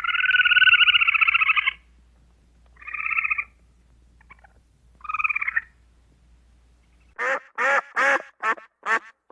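Animal calls: a long buzzy call, then two shorter ones, followed from about seven seconds in by a fast run of short, evenly repeated calls, roughly two or three a second.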